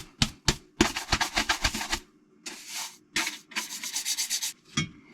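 Hand brush scrubbing dirt off an engine part: quick back-and-forth strokes, about eight a second, in runs separated by short pauses.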